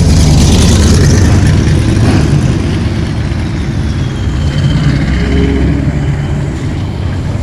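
Loud car exhaust rumble from a passing muscle car, a deep engine note that is strongest in the first couple of seconds and then eases off a little as the car moves on.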